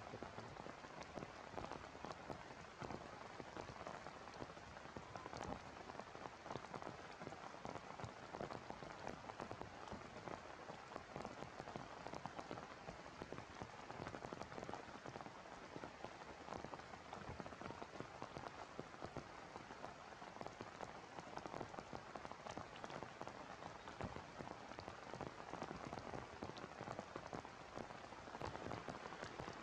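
Heavy rain falling steadily, a dense even hiss made of many small drop hits.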